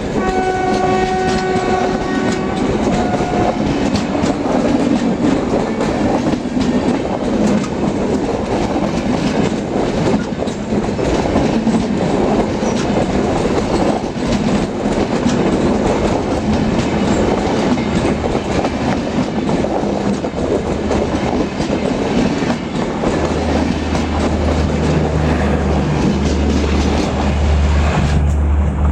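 A passing passenger train of LHB coaches, hauled by a WAP-4 electric locomotive: a horn chord sounds for about three seconds at the start, then the wheels clatter and click over the rail joints in a steady loud rush. A low steady hum comes in near the end.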